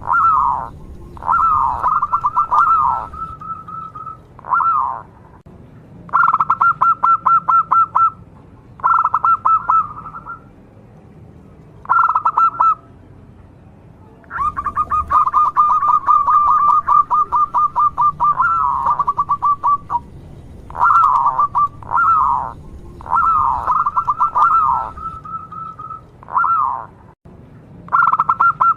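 Local zebra dove (perkutut) singing: repeated phrases of rapid, stuttering cooing notes, each a second or two long, with one longer run of about six seconds in the middle.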